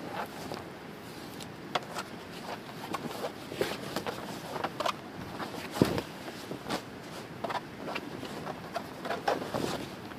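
Irregular light knocks, clicks and rustles of objects being handled, one to three a second, with a louder, deeper thump about six seconds in.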